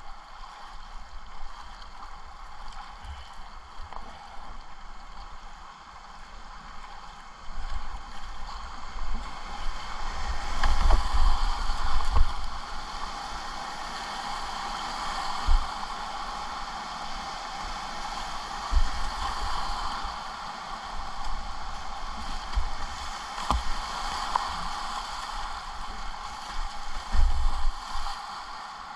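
Rushing whitewater and splashing around a kayak on the river. The water noise swells for a few seconds about a third of the way in, with scattered low thumps throughout.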